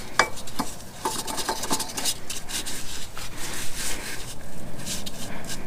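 A new oil filter being spun onto the filter mount of a Ford 6.2L engine by hand: a few light metallic clicks, then a rasping rub as the canister turns on its threads.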